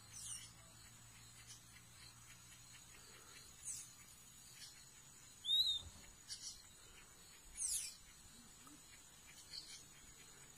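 Short, high-pitched calls of wild birds, five of them about two seconds apart, some sweeping down in pitch, the loudest a little past the middle. They sit over a faint, steady, high insect whine.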